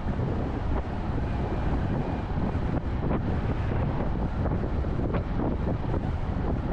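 Steady road and wind noise from a car driving at highway speed: a dense low rumble with wind buffeting the microphone and a few faint bumps.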